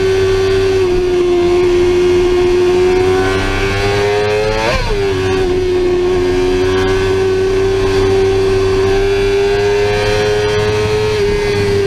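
Sportbike engine running at steady revs under way. The pitch climbs briefly about five seconds in, then drops sharply as a gear changes.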